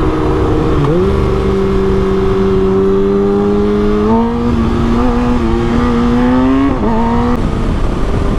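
Kawasaki Ninja ZX-6R inline-four engine pulling steadily under way, with wind rush. Its pitch climbs slowly and steps at gear changes about a second in, around four seconds in and again near the end.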